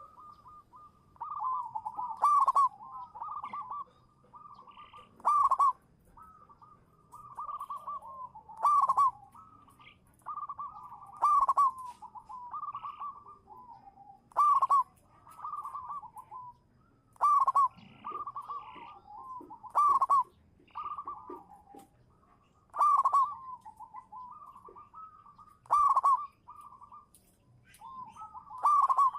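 Zebra dove (perkutut) cooing its full song: a run of rolling, staccato coos repeated about every three seconds, each phrase with one loud accented note.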